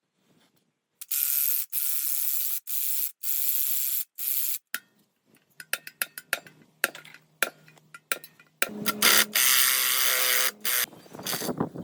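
A mechanical tool run in several short bursts of about half a second each, with clicks and knocks between them, then a longer run with a low hum.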